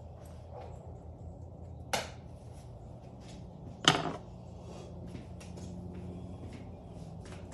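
Tools and parts being handled during a dirt bike engine teardown: two sharp knocks, about two seconds and about four seconds in, the second the louder, with lighter clicks between, over a steady low hum.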